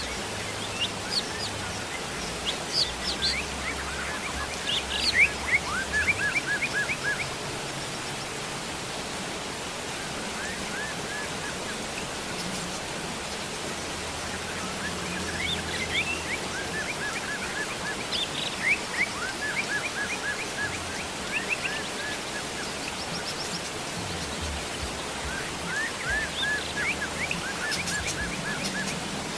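Steady rain with songbirds chirping over it: several bouts of quick runs of short, repeated notes.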